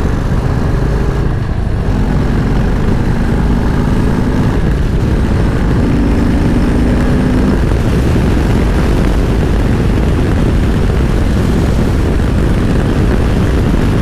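Harley-Davidson V-twin engine running steadily under way, with wind rushing over the microphone.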